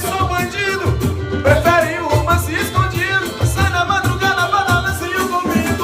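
Live band playing Brazilian samba-style music with a steady low beat about twice a second and a melody line over it.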